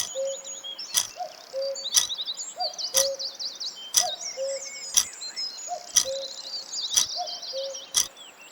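Recorded birdsong, many birds chirping and trilling, with a sharp tick once a second and a short low note between the ticks, like a quiz countdown timer.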